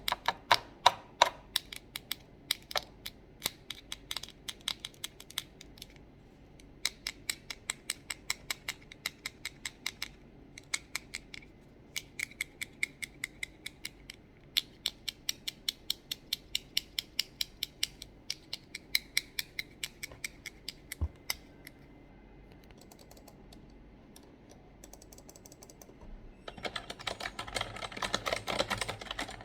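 Fast tapping on office items: sharp clicks at about five a second, in runs with brief pauses. Near the end comes about three seconds of dense scratching.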